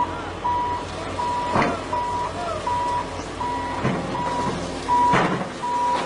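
A heavy machine's reversing alarm beeps steadily, a little more than once a second, over its running diesel engine. Three sharp knocks or clanks sound at intervals.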